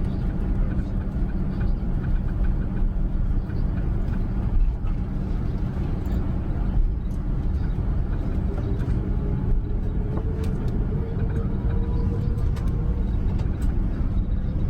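Steady low rumble inside the cabin of an Airbus A380 on the runway, heard from its upper deck. From about halfway through, a faint whine slowly rises in pitch as its four Engine Alliance GP7200 engines begin to spool up for takeoff.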